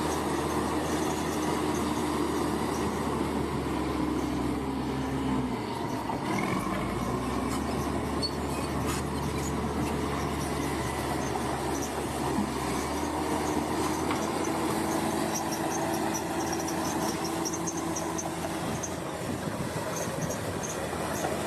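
Diesel engine of heavy earthmoving machinery running steadily, its note dipping briefly and shifting about six seconds in.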